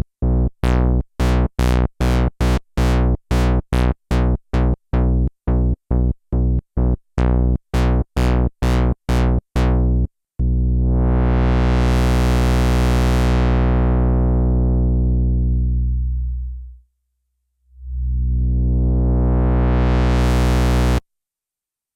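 A Sequential analog polyphonic synthesizer playing a dry patch. First comes a quick run of short staccato bass notes, a few per second. Then a long held note opens its filter until it is bright and closes it down again, and a second held note brightens and stops abruptly.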